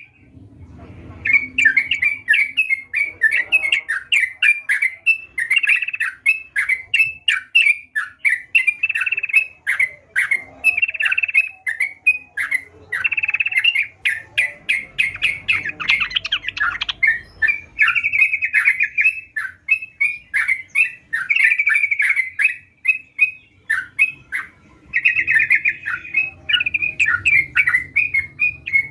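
Yellow-vented bulbul (trucukan) singing in a rapid, nearly continuous run of short chattering notes. The song starts about a second in.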